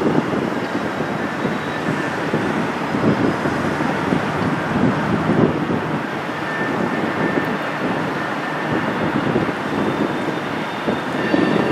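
Distant freight train rolling slowly past, a steady rumble of boxcars and a tank car on the rails, mixed with wind on the microphone.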